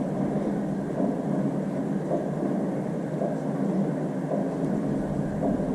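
Honda CBR1000RR inline-four engine idling at about 1500 RPM with a repeating knock, around eight times a second. That rate is too slow for the crankshaft and points to the camshaft speed, so the owner takes the knock to come from the top end, such as a loose valve, rather than a bad rod bearing.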